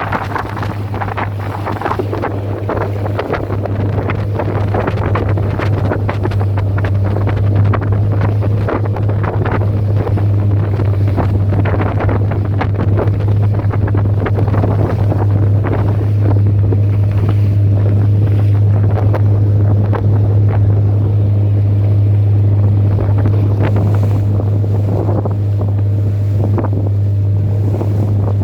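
A small fishing boat's motor running steadily with a low hum, while strong wind buffets the microphone and waves slap and splash against the hull.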